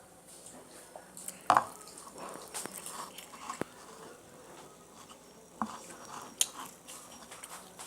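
Scattered light clicks and knocks, the loudest about one and a half seconds in, over faint background voices.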